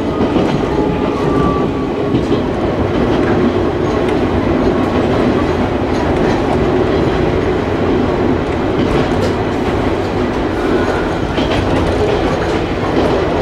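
Ichibata Electric Railway local electric train running, heard from inside the car: a steady rumble of wheels on the rails with a few clicks over rail joints.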